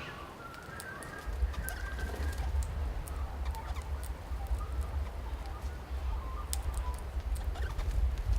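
Wild birds at a feeder giving short, scattered calls, with sharp ticks here and there, over a steady low rumble.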